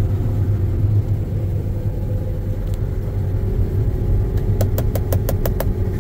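John Deere X9 combine running steadily under load as a deep, even drone, heard from inside the cab. Near the end a quick run of about seven even clicks, about six a second, sounds over it.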